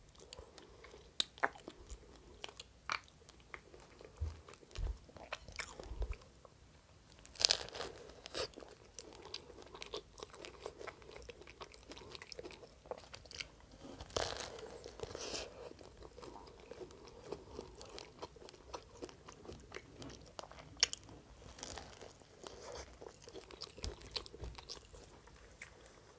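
Close-miked biting and chewing of a toasted sesame-bun hot dog, the crisp crust crunching. The loudest bites come about seven and a half and fourteen seconds in, with softer chewing clicks between.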